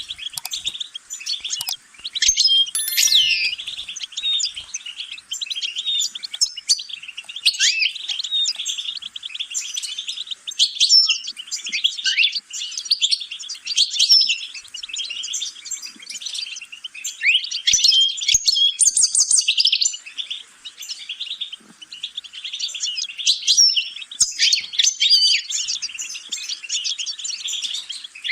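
European goldfinch singing a long, fast, continuous twittering song of rapid chirps, trills and quick pitch slides, with only brief pauses.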